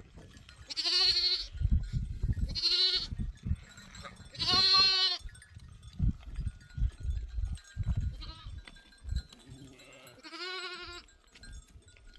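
A flock of goats or sheep bleating: five wavering, quavering bleats, the longest and loudest about four and a half seconds in, and a short faint one near eight seconds. Irregular low thumps and rumbles come between the calls.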